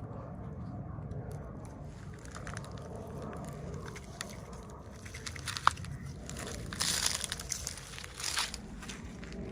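Packaging being handled and opened by hand: crinkling and rustling with scattered small clicks, one sharp click a little past halfway, and louder crinkly bursts near the end.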